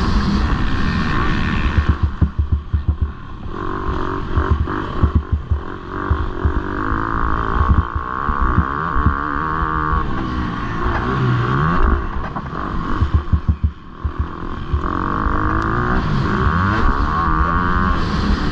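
Motocross bike engine racing hard, its revs rising and falling repeatedly, with a couple of short throttle-off dips filled with rattling knocks.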